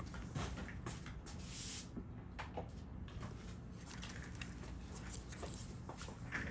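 Light clicks, taps and brief scrapes of small tools and parts being handled during work on a smartphone, scattered irregularly over a steady low hum.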